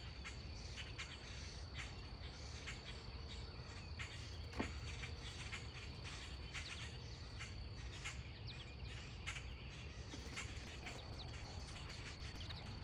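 Faint outdoor ambience: a steady high-pitched insect drone, with many scattered short ticks and chirps and a steady low rumble underneath.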